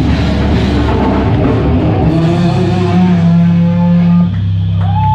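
Live rock band playing loud distorted guitar, bass and drums. The drums drop out about two seconds in, leaving a held low chord that rings on as the song ends.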